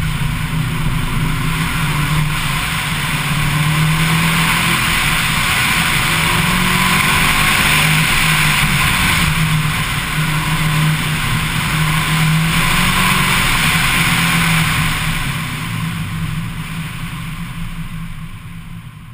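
2004 Subaru Impreza WRX's turbocharged flat-four engine running hard through an autocross run, with wind rushing over the car. The sound fades away over the last few seconds as the car slows.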